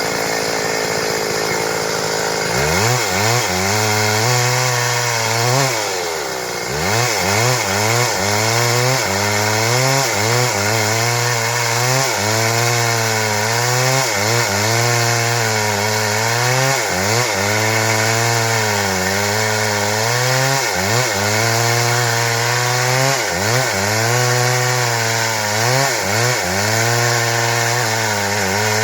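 Stihl MS 382 two-stroke chainsaw running at high revs while cutting wood into boards. From about two and a half seconds in, its pitch keeps sagging and recovering, about once every second or so, as the chain loads up in the cut.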